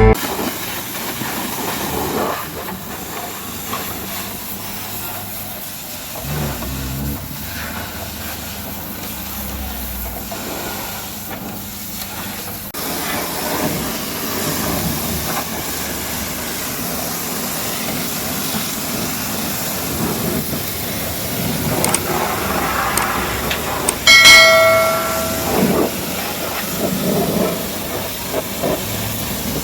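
Pressure washer spraying water, a steady hiss. Late on, a brief, loud pitched tone with overtones cuts through.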